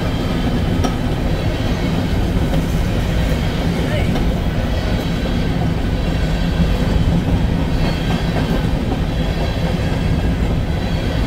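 Freight train of covered hopper cars rolling past at a steady speed: a continuous low rumble of steel wheels on rail, with a few clicks of wheels over the rail joints.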